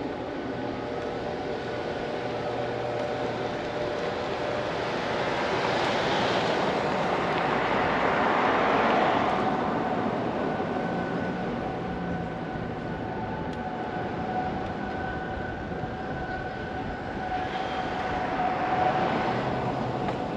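Road noise while riding a bicycle: a steady hiss of tyres and wind on the microphone, with two vehicles passing, swelling and fading about six to nine seconds in and again near the end.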